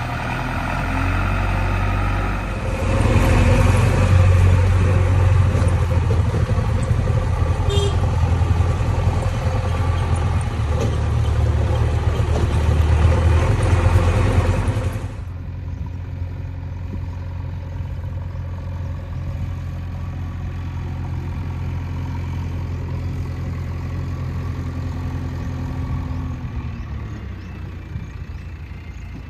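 JCB 3DX backhoe loader's diesel engine running. It works harder and louder for the first half, then drops suddenly to a quieter, steady lower speed.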